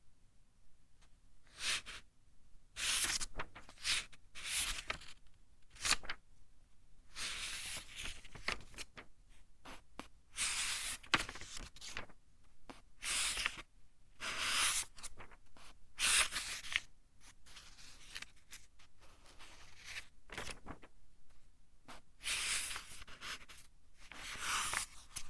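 Pages of a thin-papered book being turned one after another: a string of irregular, crisp paper rustles and flicks, some short and some drawn out over about a second.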